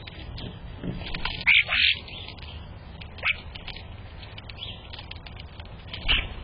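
Wild birds giving short chirping calls at a trellis, the loudest pair about one and a half to two seconds in, one more near three seconds and another near the end, over a steady background hiss.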